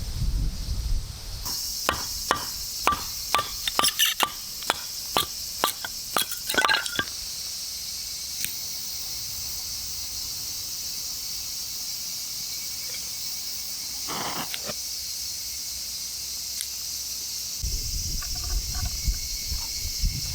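A run of about fifteen sharp chopping knocks, two to three a second, over the first seven seconds, over a steady high-pitched chorus of insects that carries on throughout.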